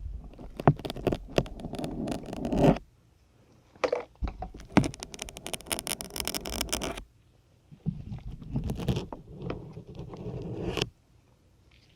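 Syringes being pulled out of a dense grey sponge, close-miked: a crackly, squeaky scraping as each one drags free. There are three drawn-out pulls of about three seconds each, with short silent gaps between them.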